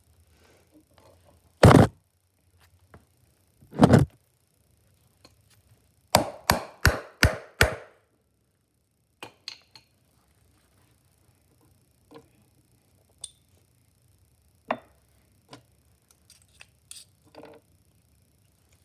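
Sharp blows of a hammer on a hole punch, cutting bolt holes through a cork gasket: two single strikes, then a quick run of about five, then lighter taps and clicks.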